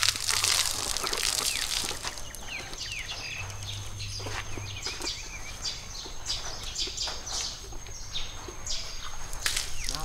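Small birds chirping in quick short calls, over a faint steady high-pitched whine, with scattered rustles and knocks loudest near the start and near the end.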